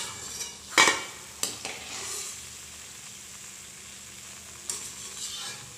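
Mathri sizzling in oil in a kadhai on high flame, the last crisping stage of frying, with a steady hiss. A slotted steel spoon scrapes and knocks against the pan as the pieces are turned and lifted out; the loudest knock comes about a second in.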